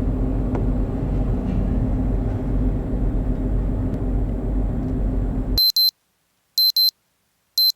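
Steady low rumble of a cruise ship under way, which cuts off abruptly about five and a half seconds in. Then a high electronic double beep repeats about once a second, three times, with dead silence between.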